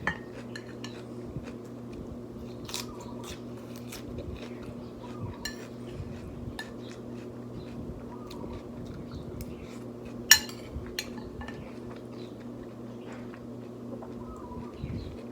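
Metal spoon clinking and scraping against a plate as someone eats, with chewing between the strikes. One sharp clink about ten seconds in is the loudest. A steady low hum runs underneath.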